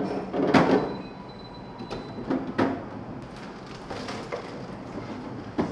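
Handling noises: about half a dozen light knocks and clatters, spaced irregularly, as plastic organizer pieces are handled.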